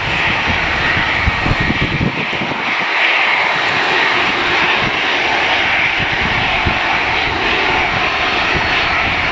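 Airliner engines running with a steady, loud roar, with irregular low rumbles of strong gusty wind buffeting the microphone.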